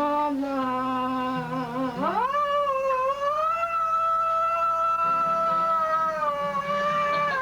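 A singer draws out the word "love" in one long note that swoops up about two seconds in, is held for some five seconds and falls away near the end, with guitar behind it.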